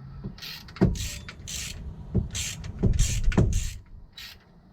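Socket wrench on an extension bar worked in short repeated strokes, a rasp roughly every half second with a few low knocks, as an engine's belt tensioner bolt is wound up tight.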